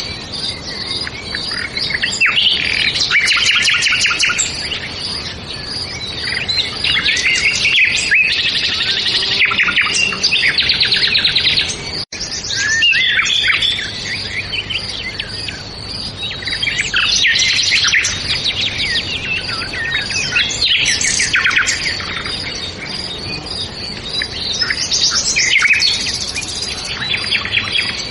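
Several songbirds chirping and singing in overlapping, rapid phrases that come in bouts every few seconds. There is a brief break in the sound about twelve seconds in.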